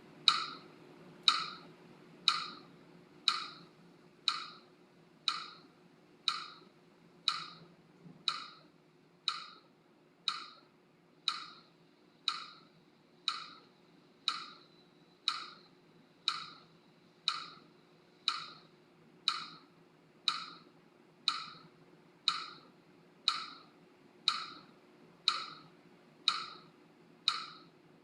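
Steady ticking: a sharp, dry, woodblock-like click about once a second, keeping an even beat for counting the breath, over a faint steady hum.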